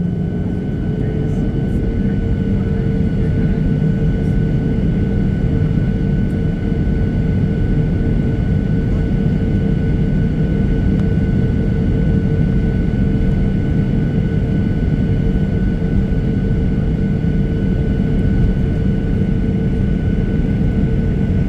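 Boeing 737-800's CFM56 jet engines running steadily: a loud, even rumble with a steady whine over it, the whine rising slightly in pitch about a second in.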